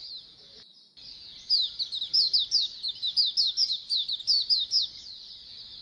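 A flock of white-eyes (pleci) chirping and twittering together in rapid, overlapping high notes. The sound drops out briefly just under a second in, then the chorus resumes.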